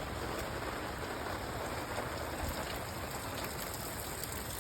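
Steady rain falling, an even patter without a break.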